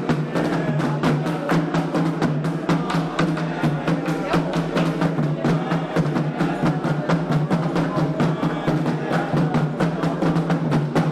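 Candomblé ceremonial music: rapid, dense drum strokes in a steady driving rhythm with voices singing over them.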